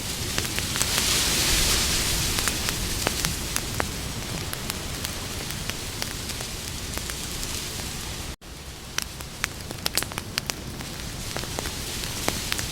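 Wood campfire crackling: scattered sharp pops and snaps over a steady hiss of burning. The sound cuts out for an instant about eight seconds in.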